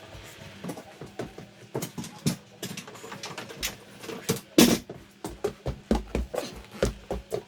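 Irregular knocks and taps from hand work on wooden door-extension framing. The loudest comes about halfway through.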